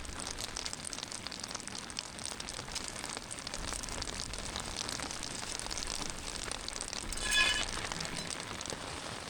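Steady rain pattering on a tent, a dense crackle of many fine drops. About seven seconds in there is a short, high-pitched squeak.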